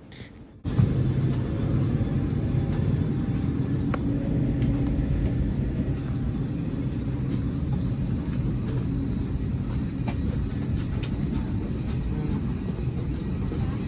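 Steady low mechanical rumble of a parked airliner and the airport around it during deboarding, starting abruptly about half a second in, with a few faint clicks.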